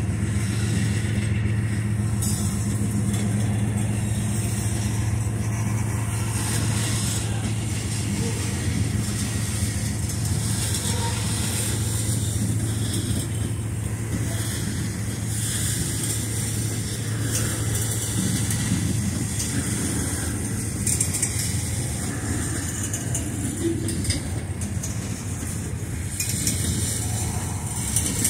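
CSX freight train's cars rolling past at low speed, wheels running on the rails in a steady rumble. Under it is a low steady hum from the diesel locomotives pulling lightly in notch 2, strongest in the first few seconds.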